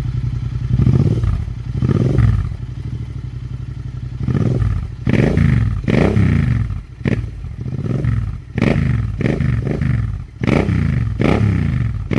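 Royal Enfield Continental GT 650's parallel-twin engine running through its twin exhausts and revved in short throttle blips, each rising and falling in pitch. Two blips come near the start, then it idles steadily, then it is blipped over and over in quick succession from about four seconds in.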